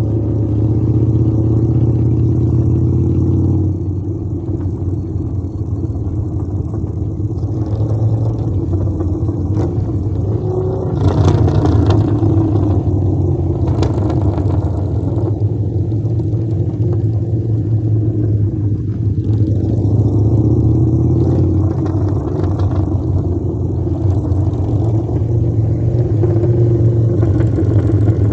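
Motorcycle engine running steadily under way, with a deep even drone. A couple of brief louder rushes of noise come about halfway through.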